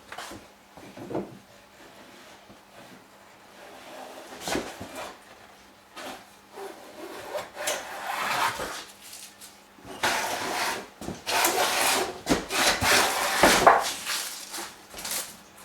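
Hand plane taking shavings off a wooden beam in a series of strokes, a few short ones at first, then longer, louder strokes in the second half.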